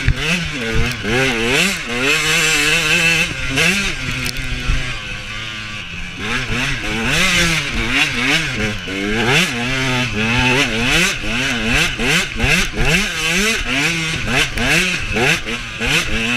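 Husaberg TE125 two-stroke enduro motorcycle engine revving hard up and down as it is ridden, its pitch rising and falling every second or so with throttle and gear changes. It eases off briefly about a quarter of the way in, then picks up again.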